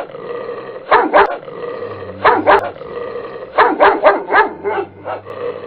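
A Cane Corso barking: two pairs of barks, then a quicker run of about six, over a steady low hum.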